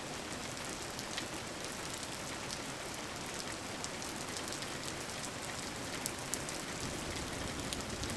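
Steady rain falling, a constant hiss with scattered drops ticking sharply now and then.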